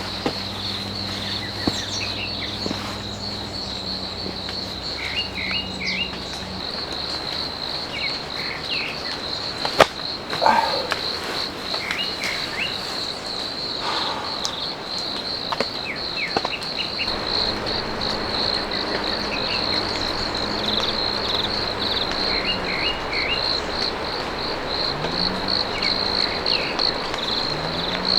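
Night insects, likely crickets, trilling steadily in a fast pulsing chirr, over the even hiss of rain in the forest.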